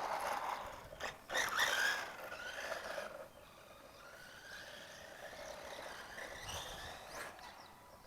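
Brushless electric motor of an RC semi truck, 2700 kV on a 2S battery, whining as it is driven. The pitch sweeps up and down and is loudest over the first three seconds, then settles to a fainter, steadier whine that slowly climbs.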